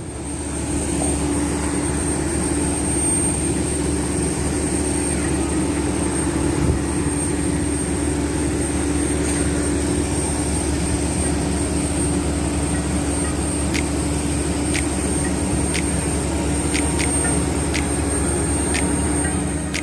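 Steady drone of an airliner's jet engines heard from inside the passenger cabin, with a thin high whine held throughout and a few faint clicks in the second half.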